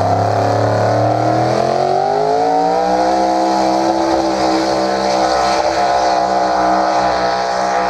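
Pickup truck's pulling engine under full load down the track: its revs climb over about a second and a half, then hold high and steady.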